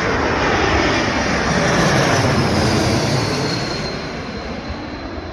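Jet airliner flying past close by: a loud rushing roar that builds to its loudest about two seconds in, then fades, with a high engine whine that drops slightly in pitch as it passes.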